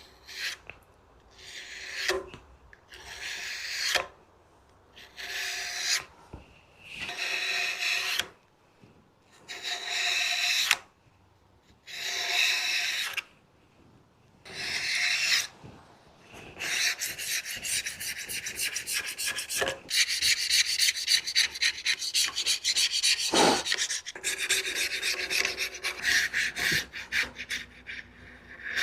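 Hand scrubbing on the Grizzly G0510Z shaper's cast-iron table top, rubbing off a film that the owner takes for leftover factory rust-preventive coating. It starts as separate slow strokes about every two seconds, then from about halfway through turns to quicker, steady back-and-forth scrubbing.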